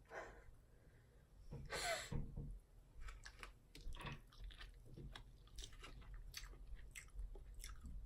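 Close-up mouth sounds of a person eating boiled shrimp: wet chewing and lip smacks in a run of short clicks, with one louder noise about two seconds in.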